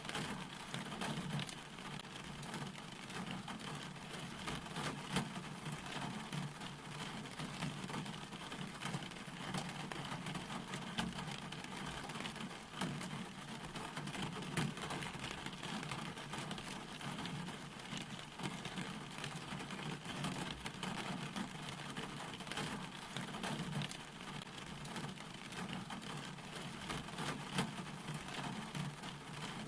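Steady rain falling, an even hiss with many close drops tapping on a surface.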